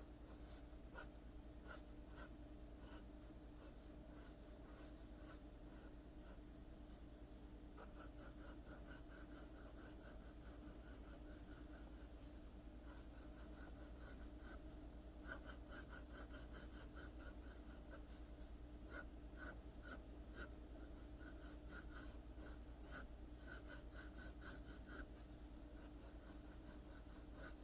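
Pencil strokes scratching on paper, faint and rapid, in clusters of short strokes: hair being drawn line by line, pressed harder for the dark parts and lighter for the lit parts.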